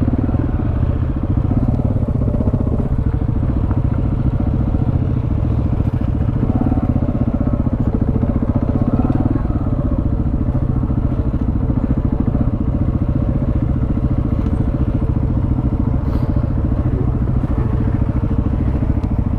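KTM 690's single-cylinder engine running steadily as the motorcycle rides at low speed along a sandy dirt track.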